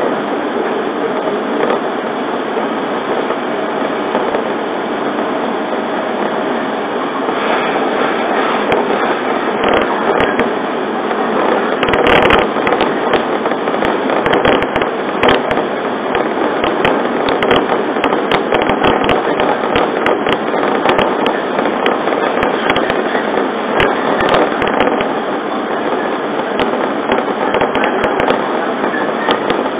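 Running noise inside a 115 series electric train car moving at speed: a steady rush, with many sharp irregular clicks and crackles from about eight seconds in.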